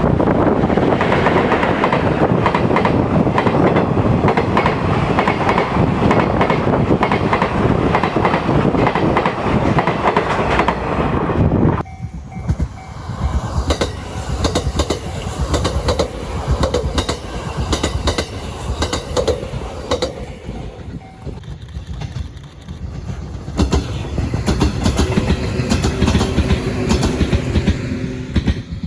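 Trains passing over rail joints, the wheels clattering across them. A loud, dense run of clicks cuts off abruptly about two-fifths of the way through. It gives way to a quieter train pass with more spaced-out joint clicks and a faint steady tone near the end.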